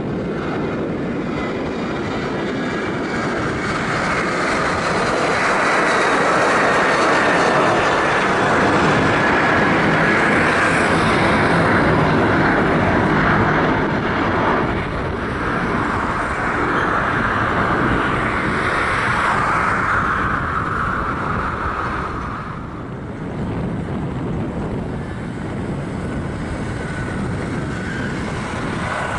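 Boeing 737-800's twin CFM56-7B turbofan engines at takeoff thrust, a loud jet rumble with a whine that swells, holds and slowly sinks in pitch as the airliner passes. About three-quarters of the way through it breaks off to a quieter, steady jet-engine noise from another airliner starting its takeoff.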